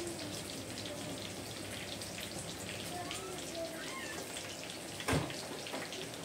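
Chicken nuggets frying in hot oil in a frying pan: a steady sizzle with many small crackles. About five seconds in, the metal tongs give one sharp clack against the pan.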